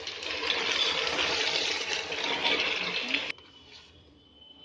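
Eggplant slices sizzling in hot mustard oil in a steel pot, a steady hiss of frying that cuts off abruptly a little over three seconds in.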